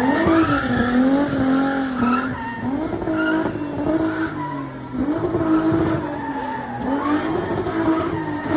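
Nissan VQ V6 engine of a spinning car revving hard, its pitch rising and falling in repeated swells every couple of seconds, over tyre squeal and skidding from the spinning wheels.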